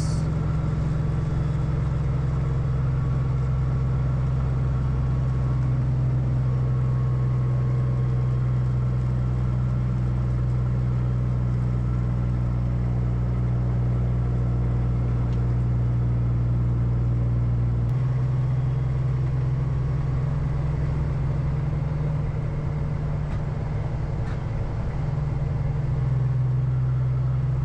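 Peterbilt semi truck's diesel engine running steadily, a low drone heard from inside the cab; about 18 seconds in the engine note changes abruptly.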